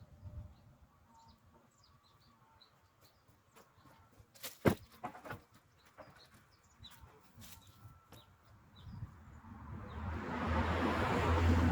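Birds chirping in short high calls, with one sharp knock about five seconds in and a couple of fainter ones just after. Near the end a rush of noise swells up and grows louder.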